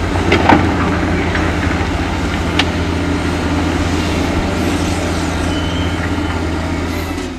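Diesel engine of heavy earthmoving machinery running steadily with a deep hum, with a few sharp knocks about half a second in and again a little over two and a half seconds in.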